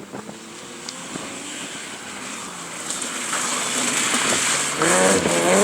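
Rally car approaching at speed, its engine growing steadily louder, with the revs rising and falling in the last second or so.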